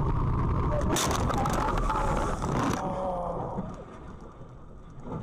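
Vehicle road rumble, cut by a sudden loud noisy burst about a second in that lasts under two seconds, after which it turns quieter.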